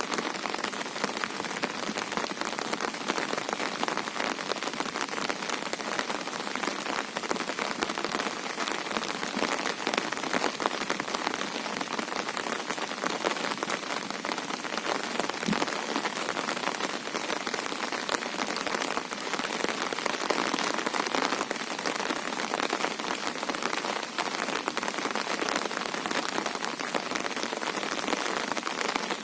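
Steady monsoon rain falling on a river, a dense even hiss of countless drops with no breaks.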